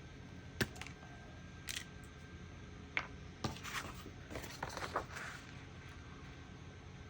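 Scattered small clicks and taps from art supplies being handled and set down on a worktable, with a few brief scratchy rustles in the middle.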